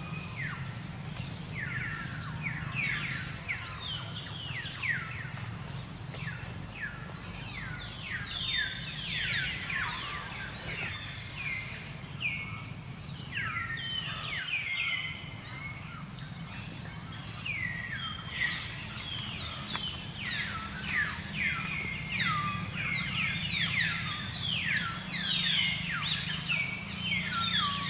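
Birds chirping, many quick downward-sweeping notes overlapping over a low steady hum.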